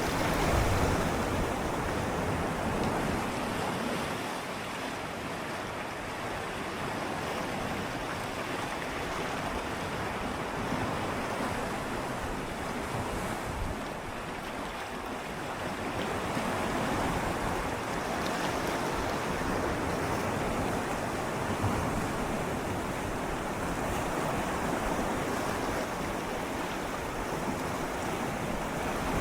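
Gentle sea waves swirling and lapping against shoreline rocks in a steady wash that slowly swells and ebbs, with some wind on the microphone.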